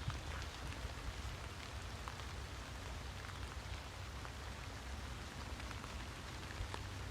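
Steady rain-like hiss with scattered faint drop ticks.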